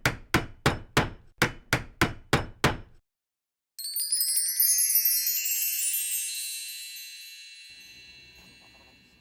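About ten sharp knocks in an even beat of roughly three a second, then after a short pause a bright, shimmering chime of many high ringing tones that fades away slowly over several seconds.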